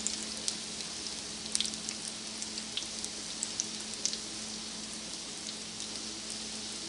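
Mutton shami kababs shallow-frying in oil in a flat pan: a steady sizzling hiss with scattered small pops and crackles.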